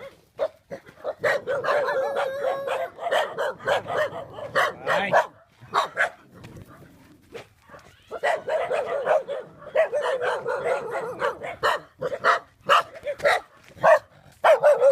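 A pack of dogs barking, many short barks overlapping in quick runs, with a lull of a couple of seconds about halfway through.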